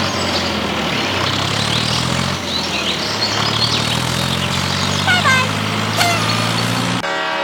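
An engine running steadily with a low hum, with short high chirps over it. It cuts off abruptly about seven seconds in.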